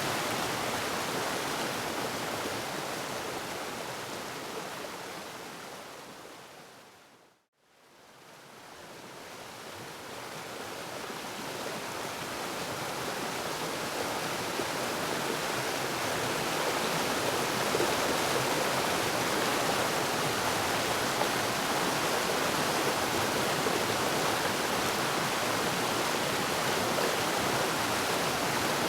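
Waterfall, a steady rush of falling water that fades out to silence about seven seconds in and fades back up over the following seconds, like an edited loop join.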